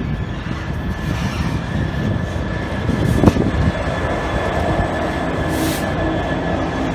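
A train running at close range: a steady rumble with a sharp clank about three seconds in and a short high hiss near the end.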